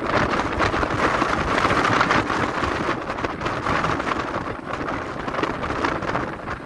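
Gale-force wind buffeting the phone's microphone: a loud, dense rushing noise that swells and eases in gusts.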